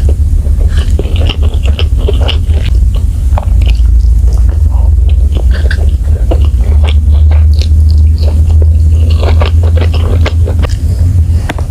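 Close-miked chewing and biting of spicy baby squid, with many quick clicks, over a steady low hum.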